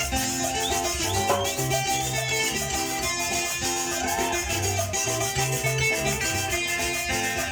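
Carranga music played by a small Colombian string band, plucked strings over a steady shaken or scraped percussion rhythm.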